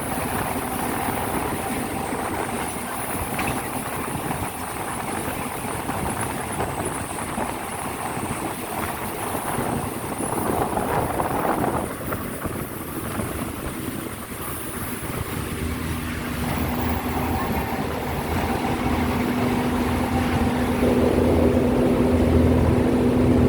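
Diesel passenger train running with a steady rumble. A low, steady engine drone comes in past the middle and grows louder toward the end.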